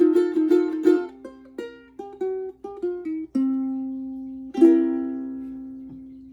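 Long-neck soprano ukulele being played: a few quick strummed chords, then a run of single picked notes, and a final chord about four and a half seconds in that is left to ring and slowly fade.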